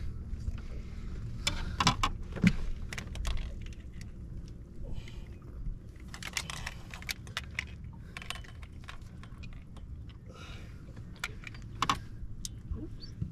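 Scattered light clicks and short rattles of small hard objects being handled, over a steady low hum.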